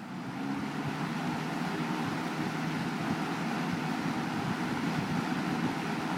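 Late 1978 Lakewood S-223 20-inch box fan with a McMillan motor running on high speed: a steady rush of moving air with motor hum, coming up to full speed in the first half second and then holding even.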